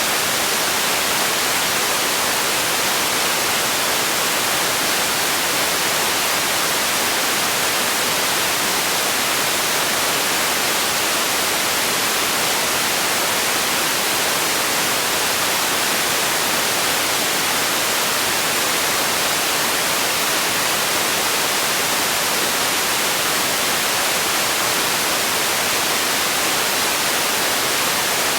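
Steady generated white noise: a bright, even hiss with little low rumble and no change.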